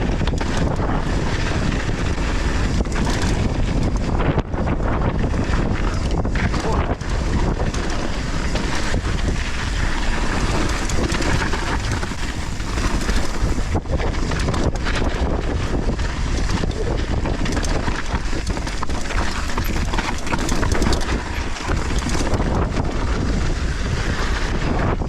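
Heavy wind buffeting on a GoPro Hero 11 microphone during a fast downhill mountain-bike descent, steady throughout, mixed with the rumble of tyres running over loose volcanic soil.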